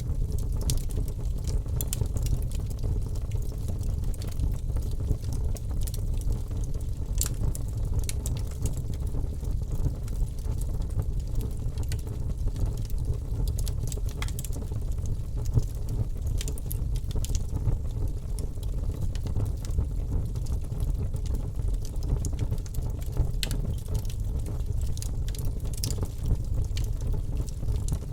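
Fire burning in a fireplace, with irregular sharp crackles and pops over a steady low rumble.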